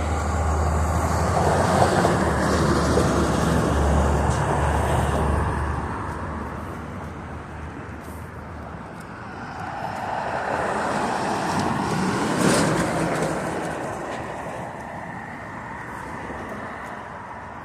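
Vehicles passing by: a heavy, low rumble goes past in the first few seconds and fades, then a second vehicle swells past about ten to fourteen seconds in.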